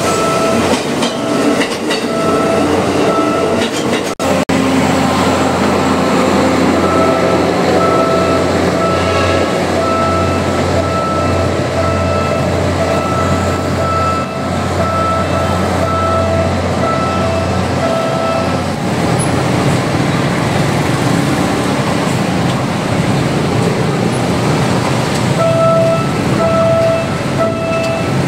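PNR diesel train running, with a steady engine drone and rumbling rail noise, while an electronic warning beep repeats over and over in stretches. The drone stops partway through.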